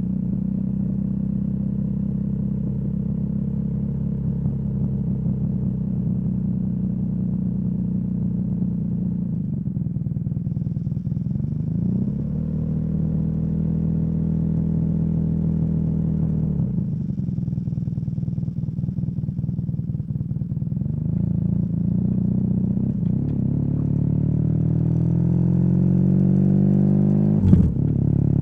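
BMW R nineT boxer twin running through a Competition Werkes slip-on exhaust while riding, its pitch stepping down and up with throttle and gear changes, then rising steadily under acceleration in the last few seconds. A single sharp knock comes just before the end.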